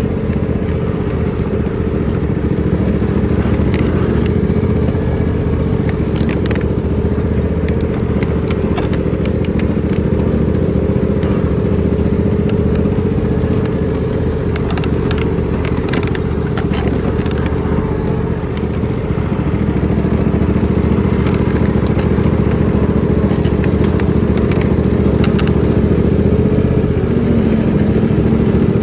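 Riding lawn mower engine running steadily at a loud, even pitch, with many short sharp cracks and clatters scattered over it.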